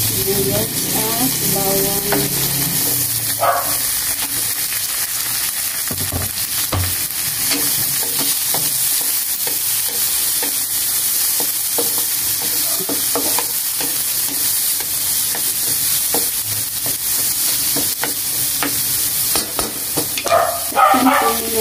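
Garlic and sliced onions sizzling in hot cooking oil in a large wok: a steady frying hiss, with a wooden spatula stirring and scraping against the pan in many small clicks.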